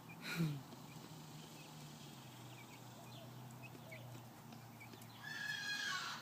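A cockatoo screeching: one long, harsh call near the end, with a falling tail.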